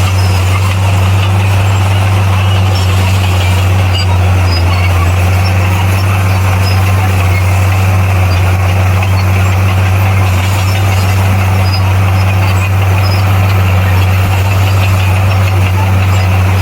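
Bulldozer's diesel engine running at a steady speed: a constant low drone that does not change in pitch or level.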